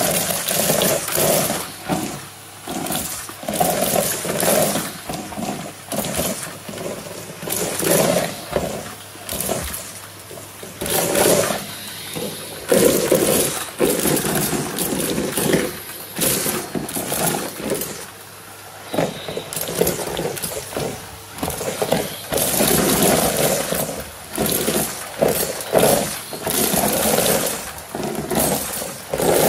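Numatic Hetty vacuum cleaner running: a steady motor hum, with the suction noise swelling and fading every second or two as the floor tool is pushed back and forth, scraping and sucking.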